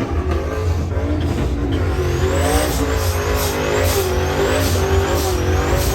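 Race cars' engines running and revving with a deep, steady rumble; from about two seconds in, a high-pitched rising squeal repeats about twice a second over the engine note.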